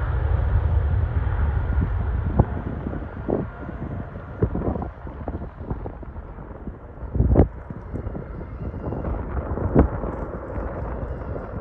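Low rumble of a jet airliner's engines slowly fading as the aircraft moves away, with short gusts of wind thumping on the microphone, the strongest about seven and a half and ten seconds in.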